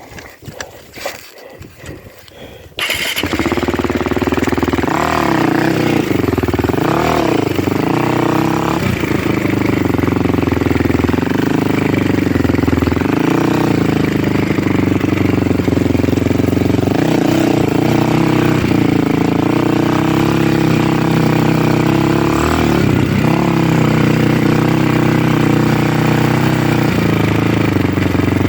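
An engine starts up suddenly about three seconds in and then runs loudly and steadily, its pitch rising and falling as it is throttled up and down.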